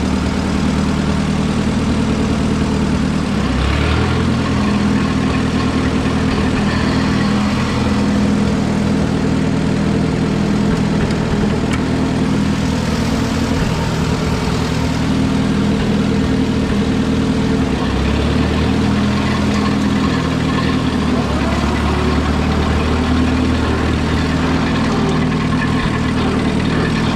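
Allis-Chalmers WD tractor's four-cylinder engine running steadily at light throttle while the tractor is driven in gear, its note shifting slightly about 4 seconds in and again around 18 seconds in.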